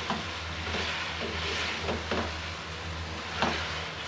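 Chicken pieces and ginger-garlic paste sizzling in hot oil in an aluminium pan, browning over a low flame. A spatula stirs them, scraping and knocking against the metal a few times.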